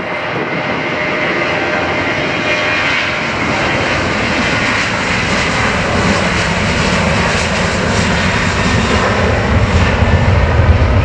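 Jet airliner's engines, growing steadily louder as the aircraft nears, with a deep low rumble building toward the end.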